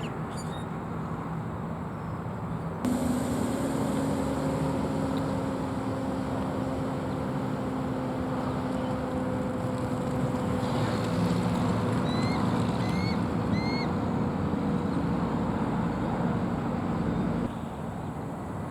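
Steady engine drone that starts suddenly about three seconds in, sinks slowly in pitch and cuts off near the end. A few short rising bird chirps sound over it in the middle.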